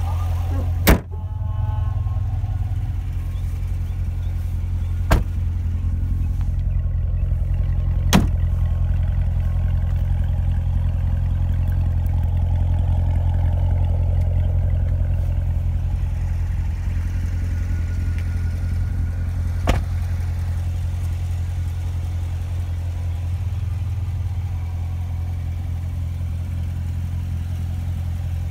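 The 2016 Corvette Stingray's 6.2-litre V8 idling with a steady low rumble, with four sharp clicks scattered through it.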